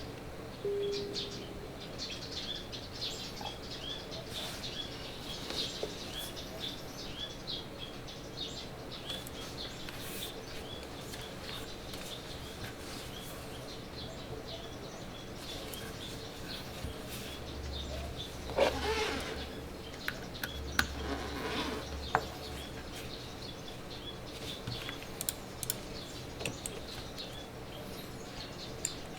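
Small birds chirping, with many short high chirps over a steady background hum. About two-thirds of the way through, there are two louder, muffled noises, each lasting a second or two.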